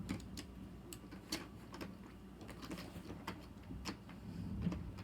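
Scattered light clicks and rattles of a plastic LEGO model being handled and turned around.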